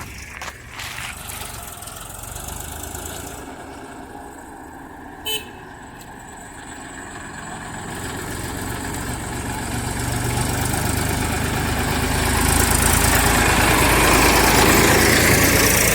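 Mahindra tractor's engine approaching, its rumble growing steadily louder from about halfway through. A horn gives a brief toot about five seconds in.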